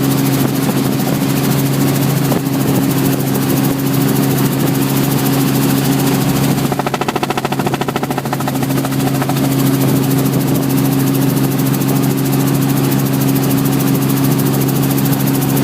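Helicopter engine and rotor running steadily, a deep even drone with a fast chop. About seven seconds in, the sound wavers for a second or two, then settles back.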